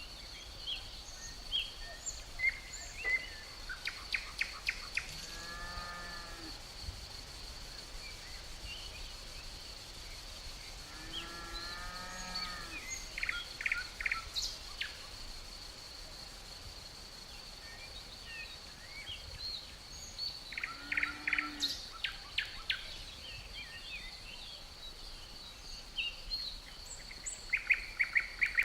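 Natural outdoor ambience: birds calling in short rapid series of notes several times, over a steady high-pitched insect drone. Twice a lower, drawn-out animal call with a wavering pitch is heard.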